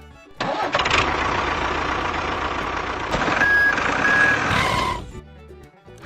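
A truck engine sound effect: it starts suddenly and runs noisily for about four and a half seconds, with two short high beeps in the middle, then cuts off.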